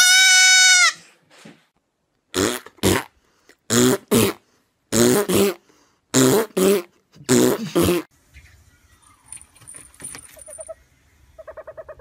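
A goat kid bleats once, loud and high, for about a second at the start. It is followed by five pairs of harsh, noisy bursts. Near the end comes a short, rapid pulsing call.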